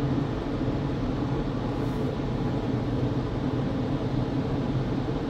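Automatic car wash air-dryer blowers running with a steady rushing roar and a low hum, heard from inside the car.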